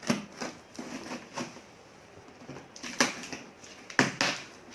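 Crinkling and clicking of packaging as a parcel is handled and opened by hand, in irregular sharp crackles, the loudest about three and four seconds in.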